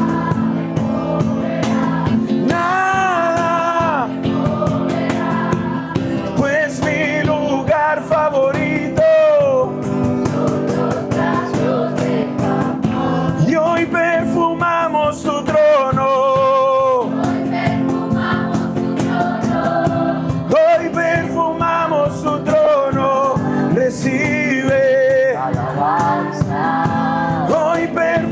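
Live worship music: voices singing a slow song together over sustained band chords.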